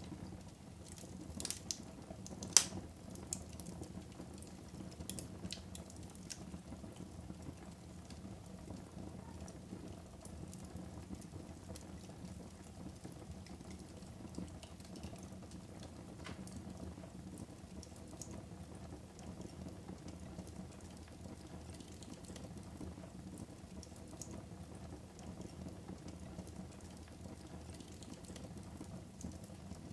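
Wood fire burning in a fireplace: a steady low rush of flames with scattered crackles and pops, the sharpest pop about two and a half seconds in.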